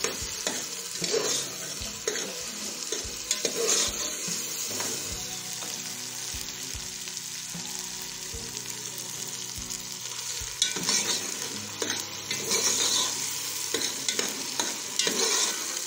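Chopped onions, tomatoes and ginger-garlic paste sizzling in hot oil in a steel pot while a metal spoon stirs and scrapes against the pot: the masala base being fried until the tomatoes soften. The scraping grows louder in the last few seconds.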